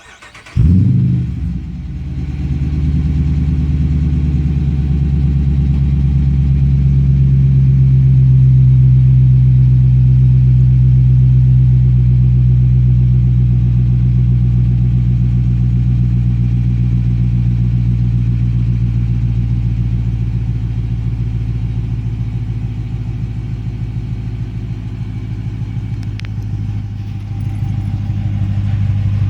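2016 Dodge Charger R/T's 5.7-litre Hemi V8 being started through Borla Pro XS mufflers with an X-pipe and no resonators: a brief crank, a loud rev flare as it catches, then it settles into a steady deep idle.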